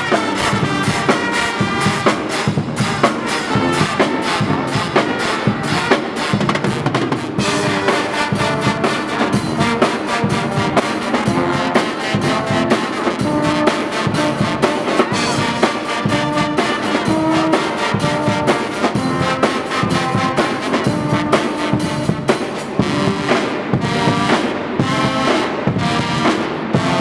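Guggenmusik band playing: trumpets, trombones and other brass over drums keeping a steady beat.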